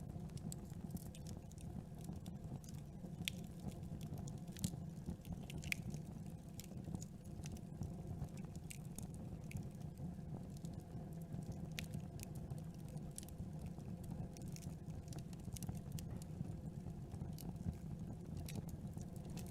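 Campfire burning: a steady low rumble of the fire with irregular sharp crackles and pops from the burning wood.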